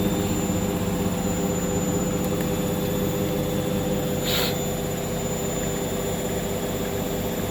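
Hoover washing machine spinning in its final high-speed spin, a steady motor whine over the drum's fast rumble. A brief hiss comes about four seconds in.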